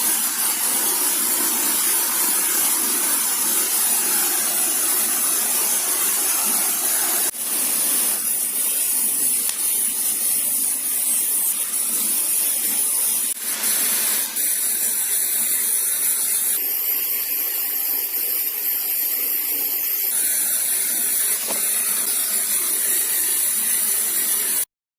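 Steady hissing noise, loudest in a high band, with brief breaks about seven and thirteen seconds in, cutting off abruptly just before the end.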